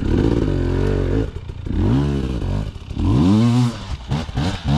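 Dirt bike engine pulling at low revs, then blipped up and back down twice in short throttle bursts as it picks its way over rocks, with a few knocks near the end.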